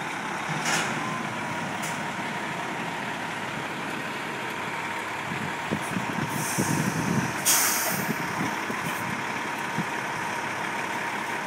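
Heavy vehicle engine running steadily, with several brief hisses, the loudest about seven and a half seconds in, and a few low knocks around the same time.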